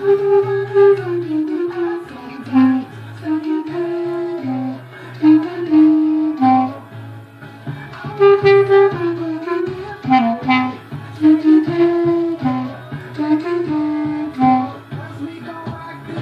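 Clarinet playing a melody over a recorded pop backing track with a steady bass line.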